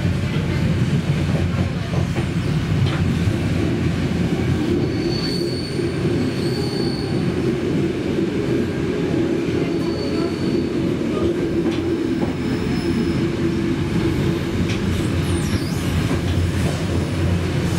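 Flåm Railway train heard from inside the carriage: a steady rumble of wheels running on the track, with short high-pitched wheel squeals that come and go, a few seconds each.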